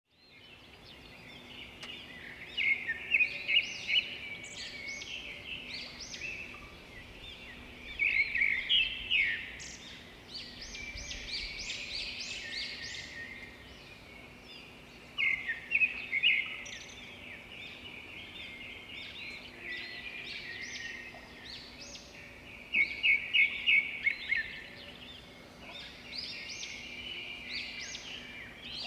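Birds chirping steadily, with louder clusters of rapid, repeated chirps every several seconds.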